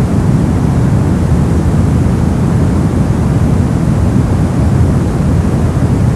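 Brown noise: a steady, deep rushing hiss with most of its energy in the low end, falling away toward the highs.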